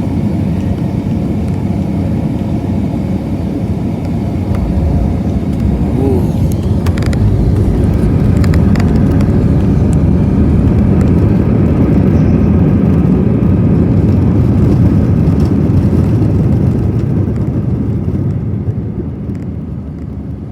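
Loud cabin rumble of an Airbus A320 touching down and rolling out on the runway. A few sharp knocks come between about six and nine seconds in, the rumble then swells, and it eases off near the end as the aircraft slows.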